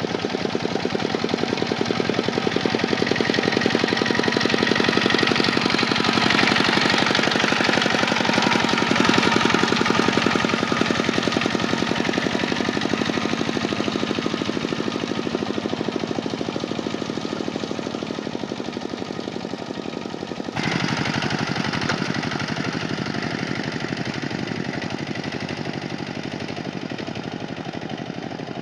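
Kubota tractor's diesel engine running steadily with a fast, even clatter. The sound changes abruptly about twenty seconds in.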